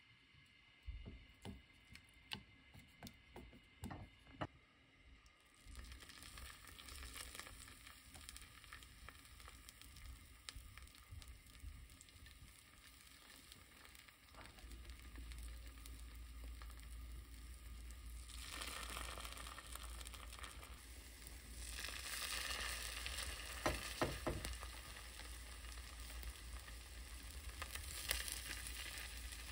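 Egg-coated angelica-tree shoots (dureup) frying in oil in a nonstick pan: sizzling starts about five seconds in and grows louder as more pieces go in. There are a few light taps in the first seconds, and chopsticks click against the pan twice near the end.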